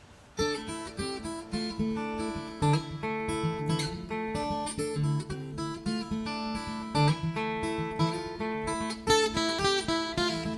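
Acoustic guitar playing the plucked and strummed instrumental introduction to a folk song, starting about half a second in.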